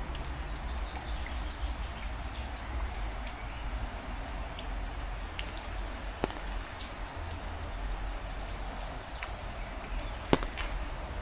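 Heavy rain falling steadily, with close raindrops ticking and a low rumble underneath. Two sharp knocks stand out, about six seconds in and, louder, near the end.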